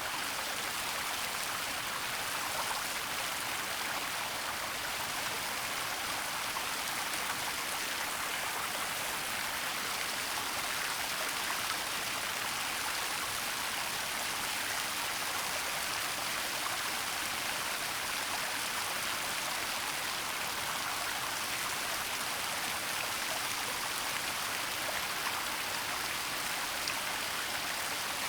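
Waterfall running steadily, an even hiss of falling and splashing water.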